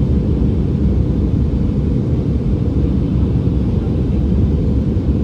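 Steady low roar inside an Airbus A319 passenger cabin in flight, the engine and airflow noise heard from a seat.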